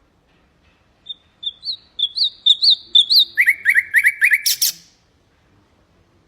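Nightingale singing one song phrase. It opens with a run of high, repeated rising notes, drops to a lower run of quick rising notes, and ends in a short harsh rattle.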